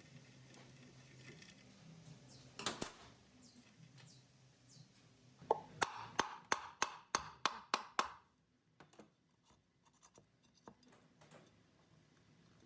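Hand-tool work on fan parts: one scrape a couple of seconds in, then a quick run of about a dozen sharp strokes, about four or five a second, and a few faint ticks near the end.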